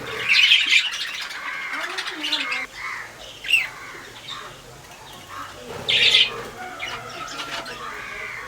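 Birds squawking and calling over one another, with loud harsh squawks near the start, about three and a half seconds in, and again about six seconds in.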